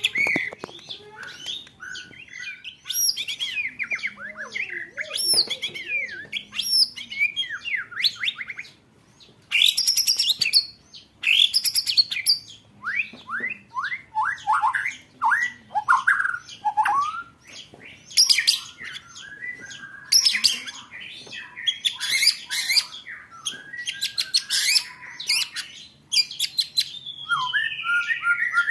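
Songbird singing an energetic, varied song: fast trills, rapid rattling rolls and sweeping whistled notes in quick bursts, some reaching very high, with a short pause about nine seconds in.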